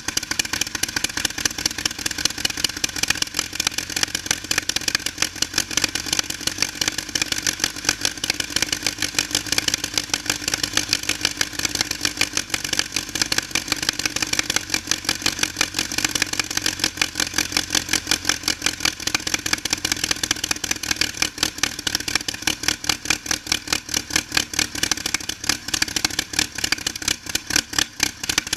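Aircraft engine running steadily on a torque test bench, with a fast, even pulsing that holds at one speed.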